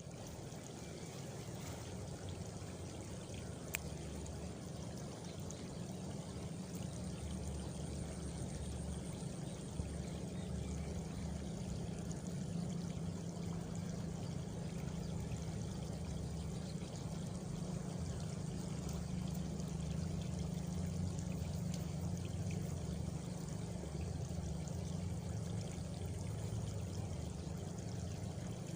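Steady flowing water, like a stream or water pouring, with a faint high cricket trill for a few seconds near the start and two small clicks.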